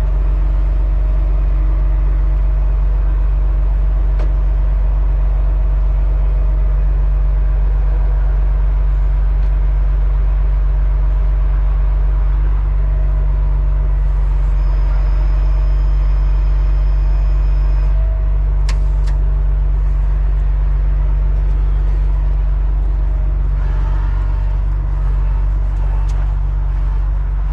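Large diesel truck engine running steadily at idle, with a brief high-pitched whine for a few seconds past the middle and a couple of sharp clicks just after it.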